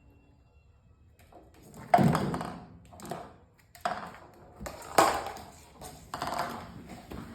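Sharp taps and knocks, each with a short scuffing tail, about once a second after a quiet start, as a kitten plays and knocks things about.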